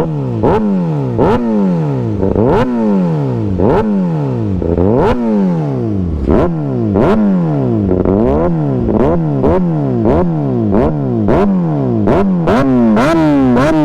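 Kawasaki ZX-6R 636 inline-four, with an Austin Racing GP1RR aftermarket exhaust, being revved repeatedly at a standstill. Each quick throttle blip rises sharply and falls back. The blips come about once a second at first, then more quickly in the second half, and the exhaust is really loud.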